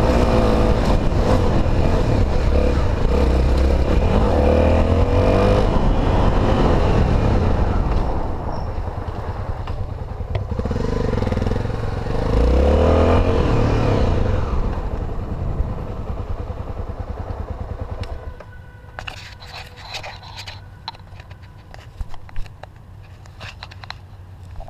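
Honda XR250 Tornado's single-cylinder four-stroke engine pulling under load, easing off about eight seconds in, revving up again a few seconds later, then dying away. Scattered clicks and knocks follow near the end.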